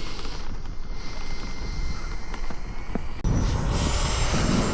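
Electric RC model airplane's motor whining, then jumping to a louder, higher whine about three seconds in as it goes to full power for a short takeoff run. Heavy wind rumble on the microphone underneath.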